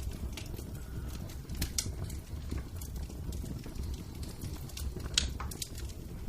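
Wood fire crackling, with scattered sharp pops, the loudest about five seconds in, over a steady low rumble.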